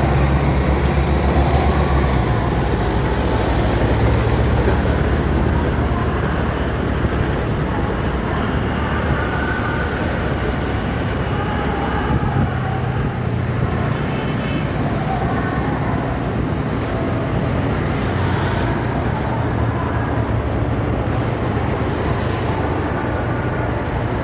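City street traffic: vehicle engines and road noise, with a heavier engine rumble in the first few seconds and again midway.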